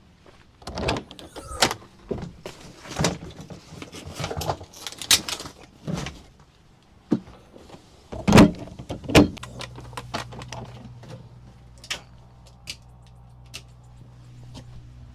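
MD 500 helicopter doors and access panels being opened, shut and latched during a preflight inspection: a series of knocks, clicks and rattles, loudest a little past eight seconds in. A steady low hum starts a little after nine seconds, with a few faint clicks over it.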